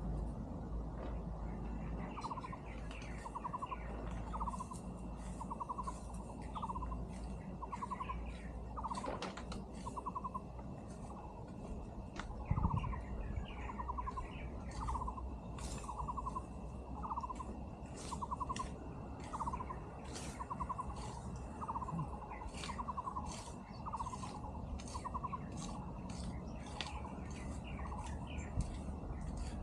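An animal calling over and over in short trilled notes, roughly one call every second and a half, over a thin steady high tone and scattered ticks.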